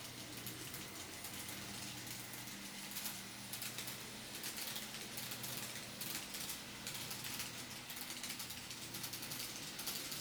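TOMIX N-scale model 207 series electric train running on track: a steady low motor hum under rapid clicking from the wheels on the rails. The clicking grows busier about three seconds in.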